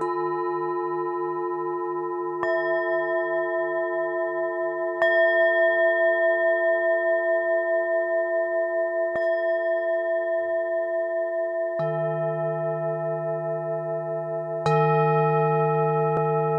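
Tibetan singing bowls struck one after another, about six strikes, each starting a long ringing tone. Several bowls of different pitch ring on together, their tones wavering with a slow pulse.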